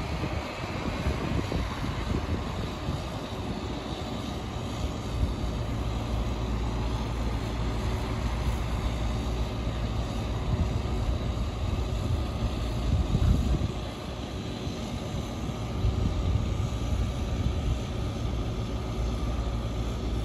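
Steady low engine rumble with a faint droning hum, rising a little around the middle and easing just after.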